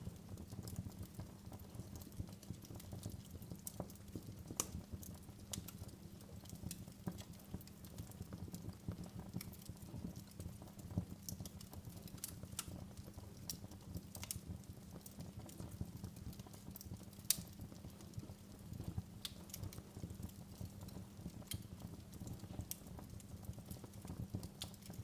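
Wood fire crackling in a fireplace: irregular sharp pops and crackles over a steady low rumble of the burning. The sharpest pop comes about two-thirds of the way through.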